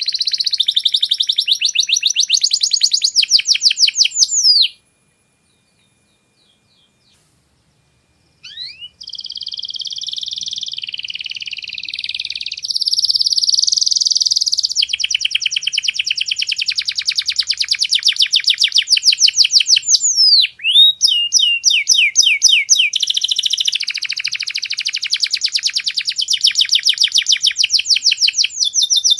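Domestic canary singing: fast rolling trills and rapid runs of repeated notes, with a few upward whistled glides. It stops for about four seconds soon after the start, then sings on continuously.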